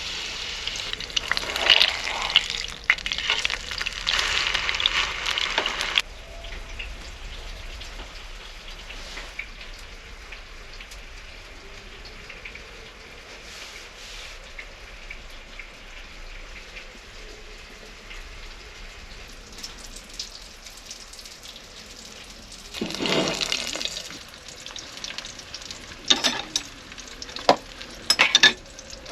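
Food sizzling in a hot pan, a steady hiss that is loudest for the first few seconds and then stops abruptly, leaving a quieter hiss broken by a few short louder bursts near the end.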